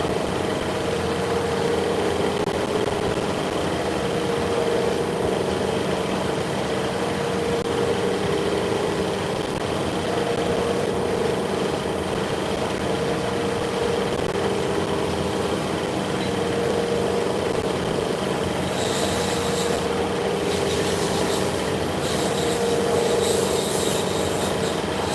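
Workshop machinery running steadily, with a hum that swells and fades every couple of seconds and a faint high whine; a hissing, crackling noise joins in near the end.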